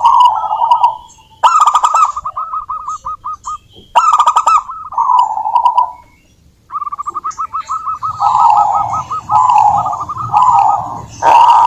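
Zebra doves (perkutut) singing: repeated phrases of quick staccato notes running into lower rolling coos, with short pauses between them. A sharp click opens a few of the phrases.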